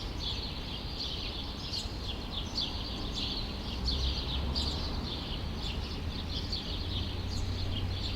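Small birds chirping in a steady stream of many short, overlapping chirps, over a low, steady city rumble.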